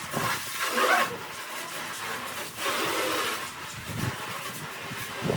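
Pressure washer spraying, a steady hiss that swells and eases.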